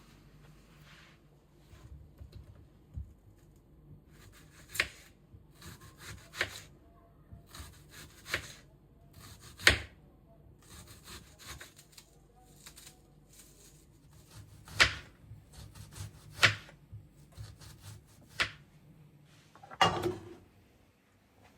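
Kitchen handling sounds: irregular sharp knocks and clacks of utensils, dishes and containers being picked up and set down on a counter, over a faint steady hum that fades near the end.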